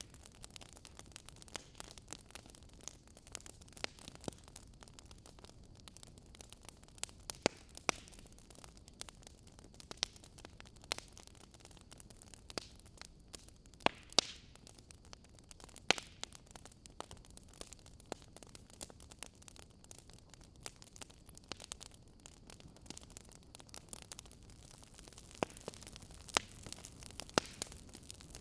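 Wood fire in a fireplace crackling, with irregular sharp pops, some much louder than the rest, over a faint steady hiss.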